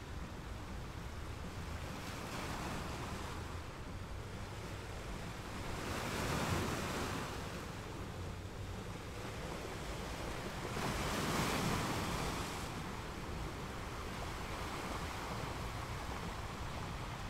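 Wind-and-surf ambience: a steady rushing noise that swells louder twice, about six and eleven seconds in.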